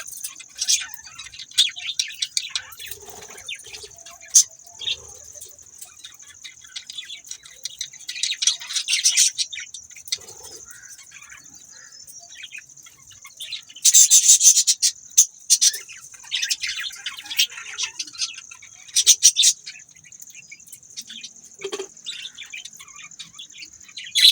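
Budgerigars chirping and chattering in quick, high-pitched bursts, loudest about halfway through, over a steady high-pitched whine.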